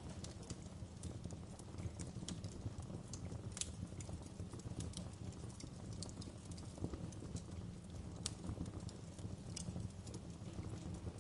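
Wood fire burning in a fireplace, crackling with irregular sharp pops, a few louder snaps among them, over a steady low rumble of the flames.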